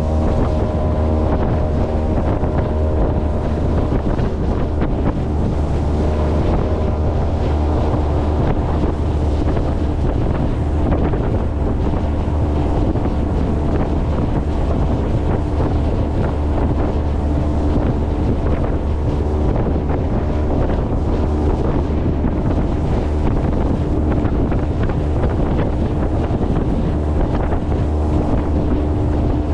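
Motorboat underway, its engine running steadily under loud wind buffeting on the microphone and rushing water.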